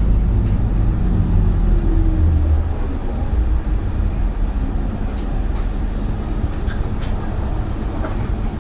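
Isuzu Erga route bus's diesel engine and drivetrain heard from inside the cabin. The engine note falls over the first couple of seconds as the bus eases off, then settles into a quieter steady rumble, with a couple of sharp clicks in the second half.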